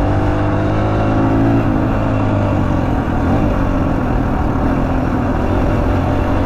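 Suzuki DR-Z125L dirt bike's single-cylinder four-stroke engine running while ridden; its pitch climbs for about a second and a half, drops, then rises and falls again with the throttle.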